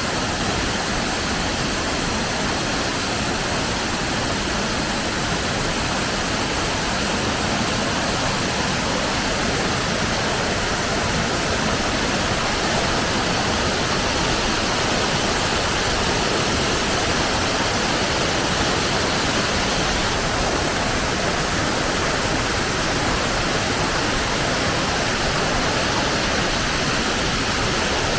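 A waterfall pouring: a steady, loud, even rush of falling water that does not change.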